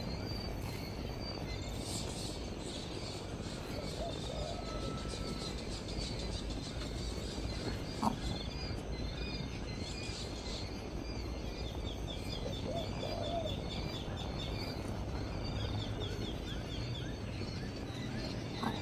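Several birds calling over a steady background hiss: repeated short high chirps, two brief rapid trills, and a few lower calls. A single sharp click comes about eight seconds in.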